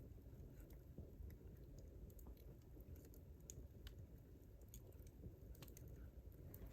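Wood campfire crackling: small sharp pops and snaps at irregular intervals over a low steady rumble.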